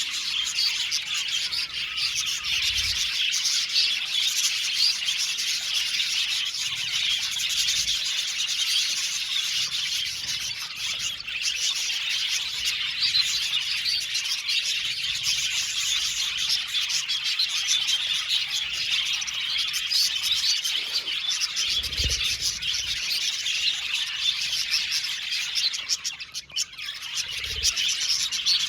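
A flock of budgerigars (budgies) chattering and chirping together, many birds at once in a dense, continuous twitter, with a brief lull near the end.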